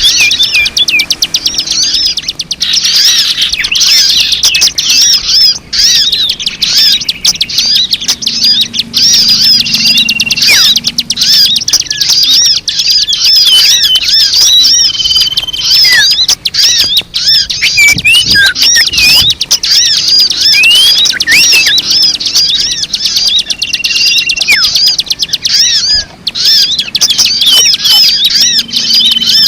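Many small birds chirping together in a dense, continuous chatter of quick high chirps, with a few short held whistle notes now and then: a flock-chatter recording used as a lure to attract birds.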